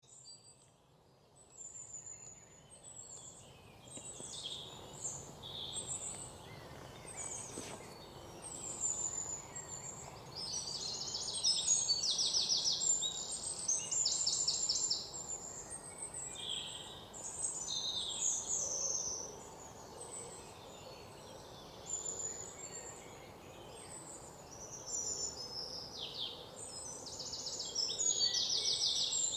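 Small birds chirping and twittering, with short high calls and quick rapid trills that repeat again and again, starting about two seconds in.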